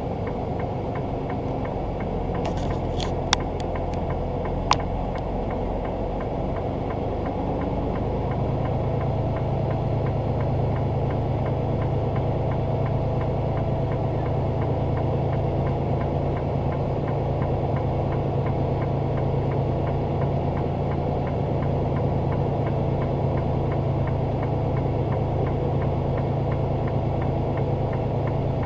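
A semi truck's diesel engine runs steadily with a low hum that grows a little louder about eight seconds in. A few sharp clicks come in the first five seconds.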